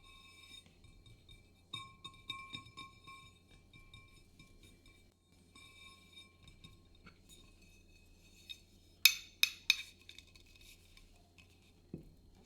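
Light taps and clinks of small hard objects, with a faint ringing tone that comes and goes. About nine seconds in come three sharp, loud clinks close together, then a soft knock near the end.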